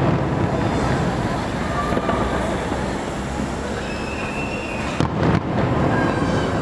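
Fireworks display going off: a steady mix of distant bursts, with a bang at the start and two sharp bangs close together about five seconds in.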